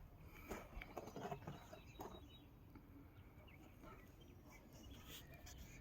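Near silence, with a few faint clicks in the first couple of seconds.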